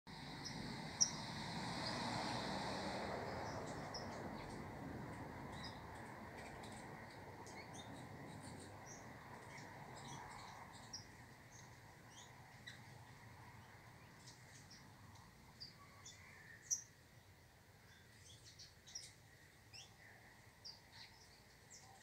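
Birds chirping with short, high notes scattered throughout, over a low rushing background noise that fades away over the first half. A sharp click about a second in.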